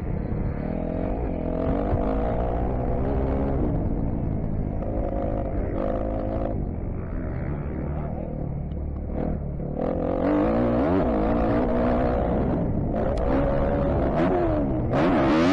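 2015 Kawasaki KX250F's single-cylinder four-stroke engine revving up and down as the dirt bike is ridden round a motocross track, its pitch rising and falling with the throttle. It gets louder about two-thirds of the way in, and a short burst of rushing noise comes near the end.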